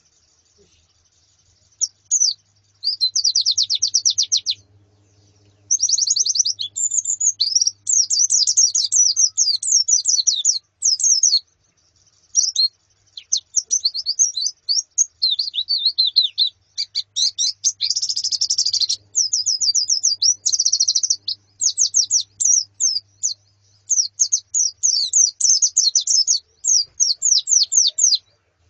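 White-eyes (pleci) chirping in a flock: bursts of rapid, high-pitched chirps and trills with short pauses, starting about two seconds in.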